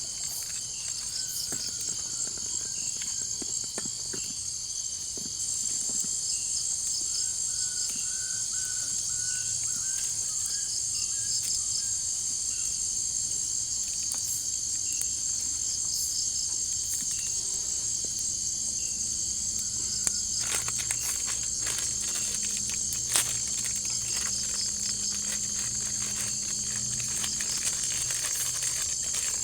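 A dense, steady chorus of jungle insects trilling at a high pitch, growing louder about five seconds in. A few faint chirps and scattered sharp clicks sit under it, two of the clicks louder near the end.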